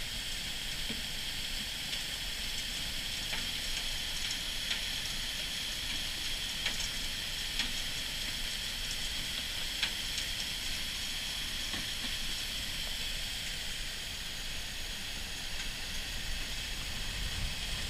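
Muddy flash-flood water of the Whitewater River rushing steadily, a continuous hissing rush with a few faint ticks scattered through it.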